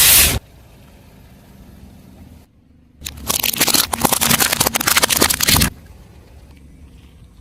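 A car tyre rolling over brittle objects and crushing them: a dense run of crackling and crunching that starts about three seconds in and stops abruptly about two and a half seconds later. It follows a brief loud burst at the very start.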